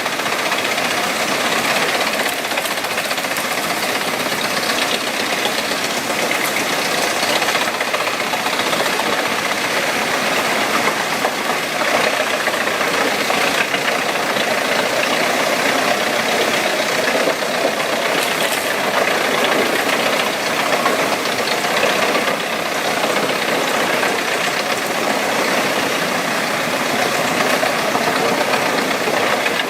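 A wood chipper running with its engine going steadily and without a break.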